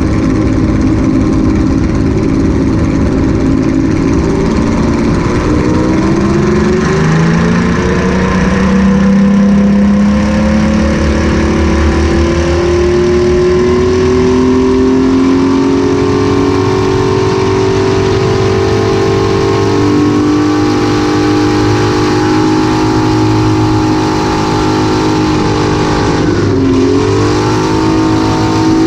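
Piston engine of a Thunder Mustang racing aircraft running loudly, its pitch rising over several seconds and then holding steady, with a brief dip and recovery near the end.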